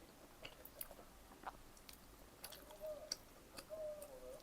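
A person chewing pizza close to the microphone, with wet mouth clicks and smacks scattered throughout. A soft wavering hum comes in over the second half.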